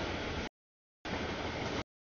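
Rumbling noise of a passing freight train, chopped into short bursts that cut in and out abruptly with dead silence between them: one burst ends about half a second in, and another runs for just under a second.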